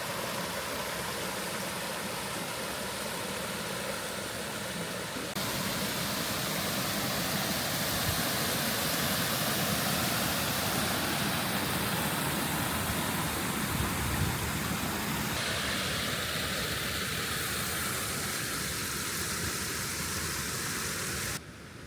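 Steady rushing water of a waterfall and fast mountain stream, heard in several takes that change abruptly every few seconds.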